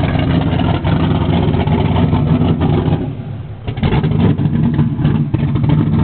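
Ford 347 stroker small-block V8 running through shorty headers and an X-pipe with no mufflers, a loud open exhaust. The sound drops off briefly a little past three seconds in, then comes back up to full level.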